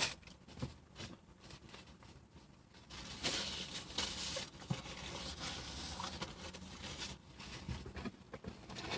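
Paper food wrapper crinkling and rustling in the hands, sparse at first and busier from about three seconds in.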